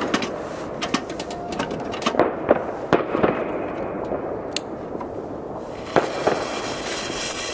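Fireworks and firecrackers going off all around: irregular sharp bangs and cracks, a dozen or more, over a continuous background din.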